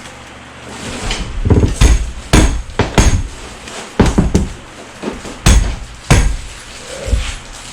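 Hammer blows, about nine sharp strikes at an uneven pace starting about a second in, driving the stuck sterndrive transom mount out of the boat's transom.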